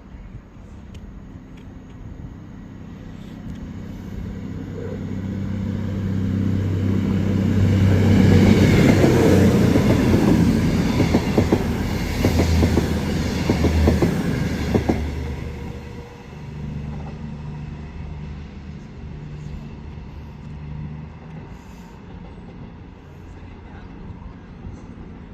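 Class 221 Super Voyager diesel-electric multiple unit passing through the station. Its engine and wheel noise build up, peak about eight to fifteen seconds in with a rapid clatter of wheels over the rail joints, then fall away sharply. A lower, steady diesel hum carries on after it.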